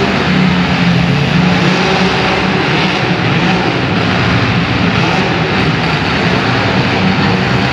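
Engines of several compact cars running hard together: a loud, steady engine noise with no distinct crashes.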